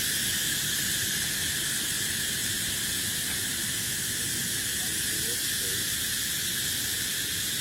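Steady high-pitched hiss of an insect chorus that does not change, with a faint low rumble underneath.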